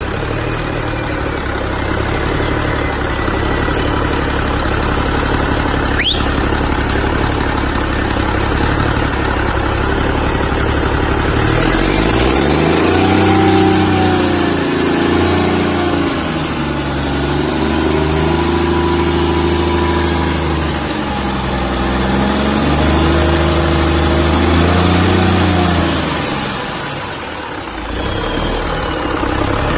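1992 Cummins L10 inline-six diesel engine, 300 hp, running: it idles steadily, then is revved up three times, each time held a few seconds before dropping back, and settles back to idle near the end. It runs well.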